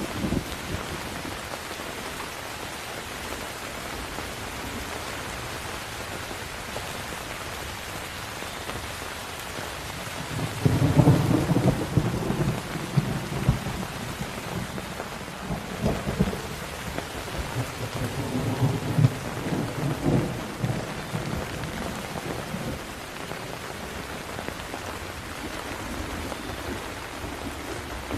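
Steady heavy rain hissing on a surface, with a long rolling thunder rumble about a third of the way in that crackles and swells in several peaks for some ten seconds before fading back to the rain alone.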